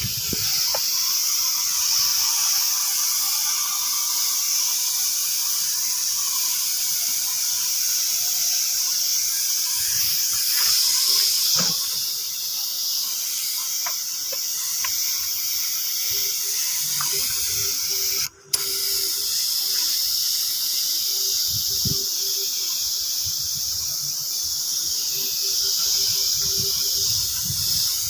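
Steady hiss of a compressed-air paint spray gun, breaking off for an instant about two-thirds of the way through.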